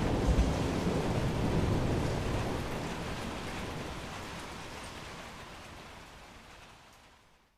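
Steady rain with low thunder rumbling about half a second in, the whole sound fading out steadily to near silence just before the end.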